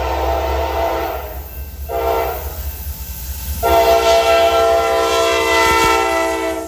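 Norfolk Southern diesel locomotive's air horn sounding over the low rumble of the train: a long blast ends about a second in, a short blast follows, then a long blast that cuts off suddenly near the end. This is the short-then-long close of the standard grade-crossing horn signal.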